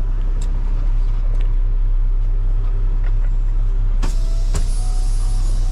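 Semi truck's diesel engine running with a steady low rumble, a few faint clicks over it.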